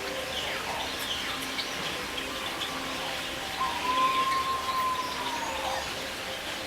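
Many birds chirping in short calls and sweeps, with one long whistled note starting about three and a half seconds in, held steady for about two seconds and then falling away at its end; that whistle is the loudest sound.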